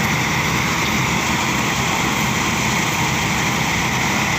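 Rice threshing machine running steadily, a continuous engine-driven mechanical noise.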